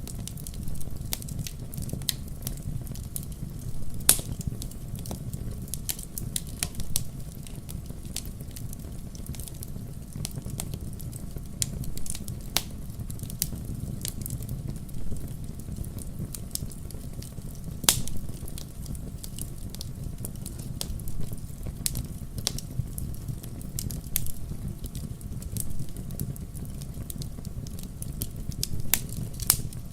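Fire crackling in a fireplace: a steady low rush of flames with frequent sharp pops and snaps. Two louder pops come about four seconds in and a little past the middle.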